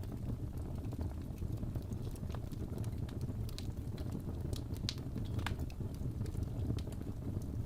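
Wood fire burning in a fireplace: a steady low rumble of flames with scattered small crackles and a couple of louder pops about five seconds in.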